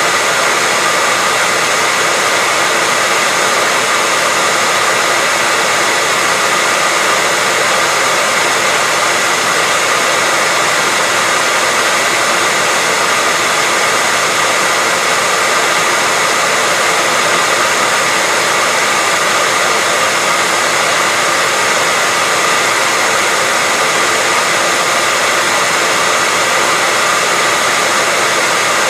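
Hair dryer running continuously: a steady rush of blown air with a faint high whine from its motor, unchanging throughout.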